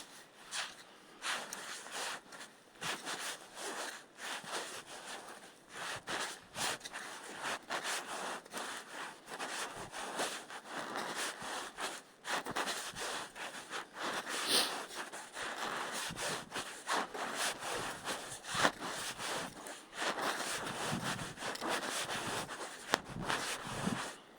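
Someone walking on rough ground: an irregular, unbroken run of footsteps, scuffs and scraping rustles.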